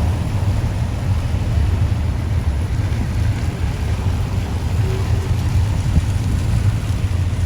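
Taxi running through traffic, heard from inside the cabin: a steady low rumble of engine and road noise with a hiss of tyres on a wet road.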